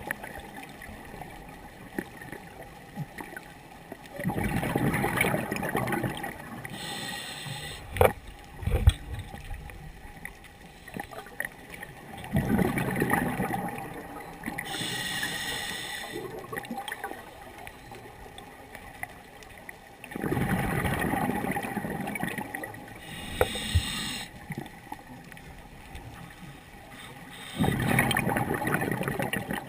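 Scuba diver breathing through a regulator underwater, in a slow cycle about every eight seconds. A long bubbling rush of exhaled bubbles is followed about a second later by a short high hiss of the inhalation. This happens four times, with a sharp click near the first hiss.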